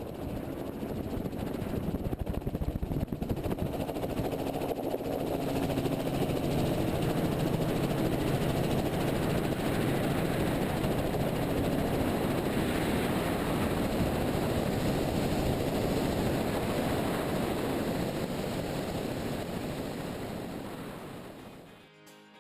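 Helicopter running steadily, a dense engine and rotor noise with a few steady low tones. It grows louder over the first few seconds and fades out shortly before the end.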